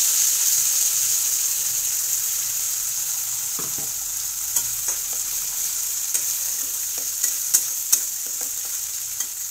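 Wet ground masala paste sizzling in hot oil and crackled cumin in a metal kadai, a loud steady hiss that slowly eases. From about three and a half seconds in, a steel spatula stirs the paste, with scattered clicks and scrapes against the pan.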